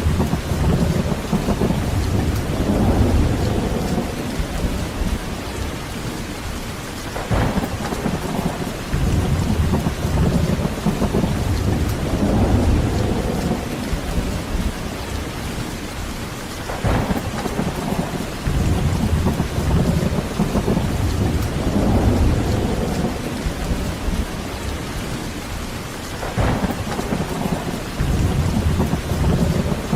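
Heavy rain falling steadily with thunder rumbling low and almost continuously, rising and easing in waves; three sharper thunder peaks stand out, roughly every nine to ten seconds.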